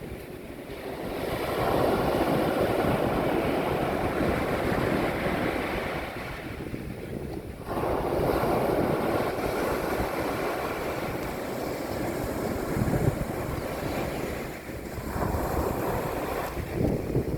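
Mediterranean sea waves breaking on a beach, the surf rising and falling. The wash swells about two seconds in, surges again suddenly about eight seconds in, and once more near the end.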